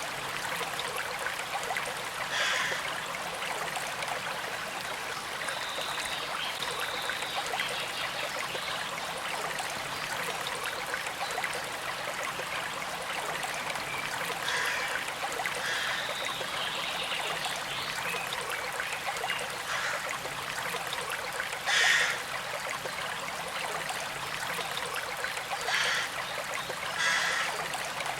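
Small creek flowing and trickling steadily over stones, with a few brief louder gurgles, the loudest about 22 seconds in.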